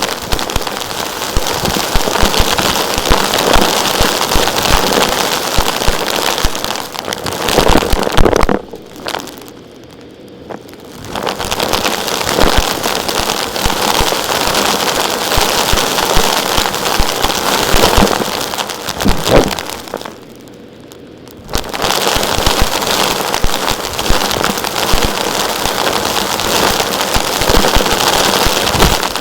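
Vacuum cleaner sucking up small rocks and grit: a dense, loud crackling rattle of stones clattering through the nozzle and hose. The rattle drops out twice, for a second or two each time.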